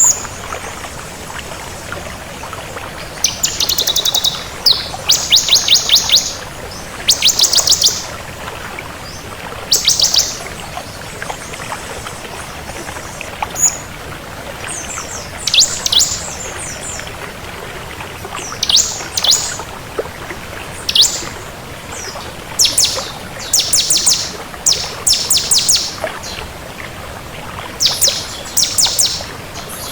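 Bar-winged prinia (ciblek) singing in short bursts of high, rapid trills and sharp chirps, every second or two, over a steady background hiss.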